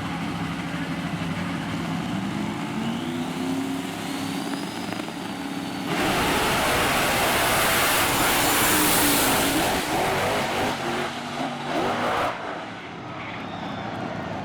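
Drag-racing truck engines running with revs rising and falling, then about six seconds in a truck launches at full throttle, loud for about six seconds before the sound drops away sharply.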